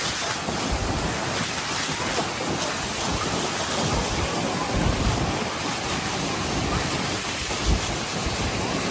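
Steady rushing roar of Niagara Falls' water and spray, heard from close by on the boat, with wind buffeting the microphone in short low rumbles.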